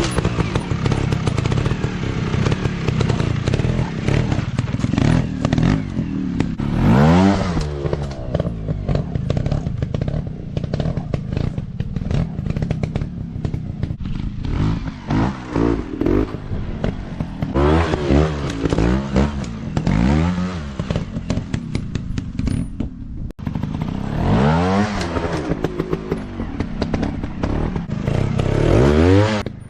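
Dirt bike engines revving hard, the pitch climbing and dropping again and again as the throttle is opened and closed, with rattling and scraping mixed in.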